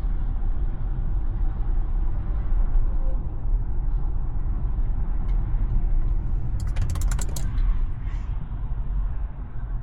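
Steady low road and tyre rumble of a Tesla driving, heard from inside the cabin. About seven seconds in comes a brief burst of rapid clicking.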